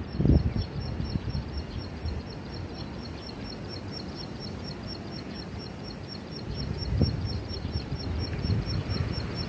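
A high, thin ticking call repeated at a fast, perfectly even rate, going on throughout, over wind rumble on the microphone that bumps up near the start and again about seven seconds in.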